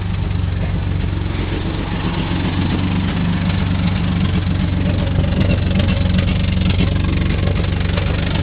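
Subaru XT6's 2.7-litre flat-six engine idling steadily.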